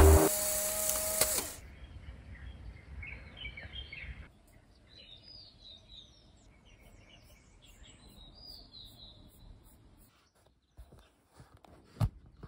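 Background music cuts off about a second and a half in. Faint bird chirps follow, short calls that rise and fall, for several seconds. A single knock comes near the end.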